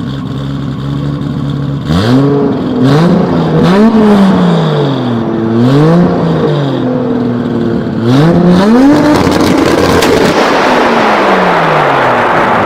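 Toyota Supra engine idling steadily, then revved hard several times from about two seconds in, the pitch climbing and falling again and again, with a few sharp cracks among the first revs.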